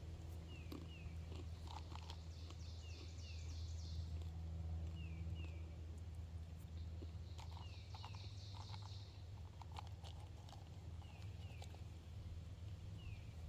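Songbirds singing: one repeats a pair of short, high falling notes about every second and a half, while another gives a rapid high trill twice. A steady low hum runs underneath.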